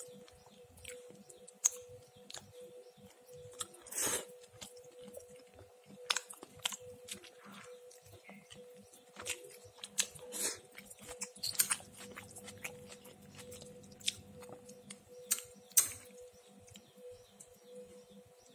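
A person chewing and crunching food close to the microphone, in irregular crackles and clicks, over a faint steady hum.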